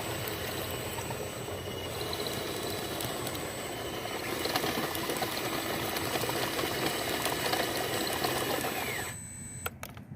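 Small electric motors and gearboxes of radio-controlled construction models running with a steady mechanical whir and rattle, which drops away sharply about nine seconds in.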